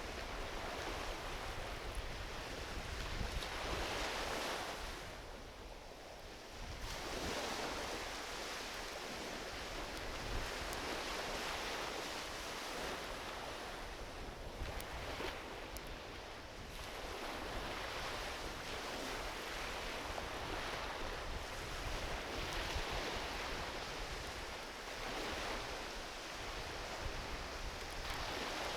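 Ocean waves washing onto a beach, the surf swelling and easing every several seconds, with a few faint crackles from a driftwood campfire.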